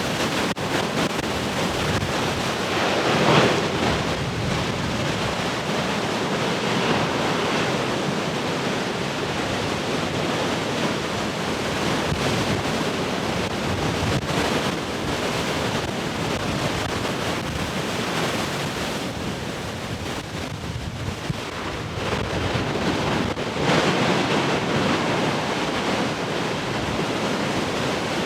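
Large ocean waves breaking: a continuous rush of surf, with two louder wave crashes, one about three seconds in and one near the end.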